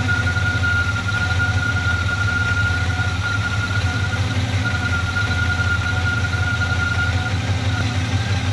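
Carbureted engine of a 1989 Chevy C/K 1500 pickup idling steadily, newly running after sitting for months, with a steady high-pitched whine over the engine note.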